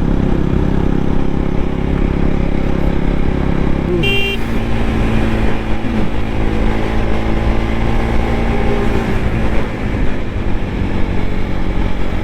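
KTM RC 200's single-cylinder engine running steadily while riding, its note dropping about four seconds in as the throttle eases or a gear changes. A brief vehicle horn toot sounds at that moment.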